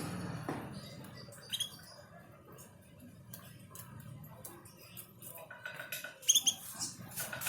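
A bird giving a few short, high chirps: one about a second and a half in and a louder cluster about six seconds in, with light clicks in between.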